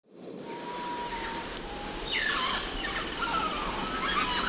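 Tropical rainforest ambience: a steady, high insect chorus with bird calls over it, several falling whistles and chatter starting about two seconds in. The sound fades in at the start.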